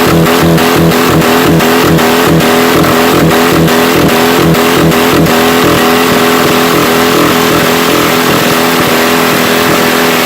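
Subaru flat-four engine held at full throttle, running steadily at high revs with sharp knocks about three times a second for the first five seconds. The engine is being run to destruction with two connecting-rod bolts loosened.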